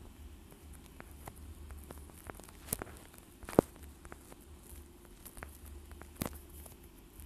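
Scattered light clicks and taps over a low steady hum, with one sharp click about halfway through.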